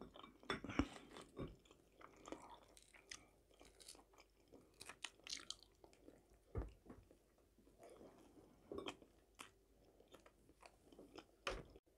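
Faint, close-up chewing of food: soft, irregular mouth smacks and clicks, with a few slightly louder ones spread through.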